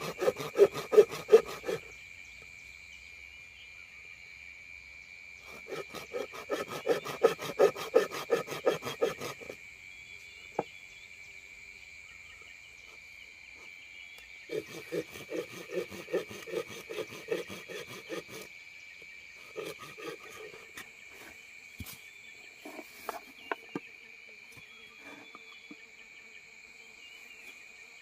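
A hand saw cutting wood in three bouts of back-and-forth strokes, about three strokes a second, followed by light scattered knocks and taps. A steady high insect drone runs underneath.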